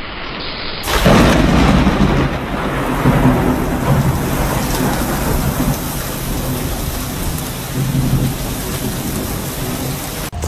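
Loud, dense rushing noise with low rumbling underneath, starting abruptly about a second in and running on evenly.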